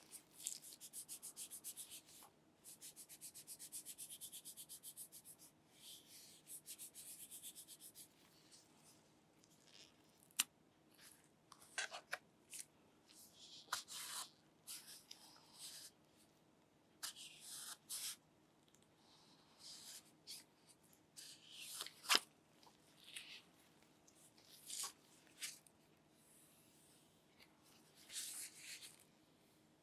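Handling noises: scattered rubbing and scratching, with two fast runs of fine, evenly spaced scratches in the first few seconds and a couple of sharp clicks.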